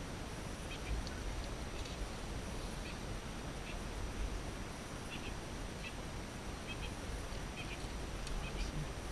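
Birds calling with many short chirps, scattered irregularly, over a steady low rumble.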